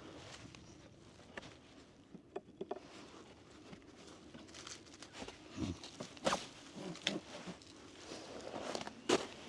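Scattered rustling and handling noise with short clicks and knocks, which come more often and louder from about five seconds in; the loudest knock is near the end.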